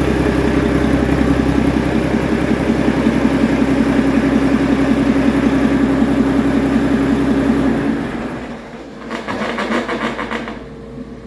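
2020 Mack MP7 inline-six diesel engine running steadily on a test stand, then shutting off about eight seconds in and winding down.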